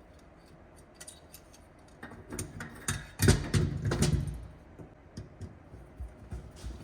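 Light clicks and taps of metal parts being handled as a fuel tank sending unit is fitted, with a louder clatter of knocks about three to four seconds in.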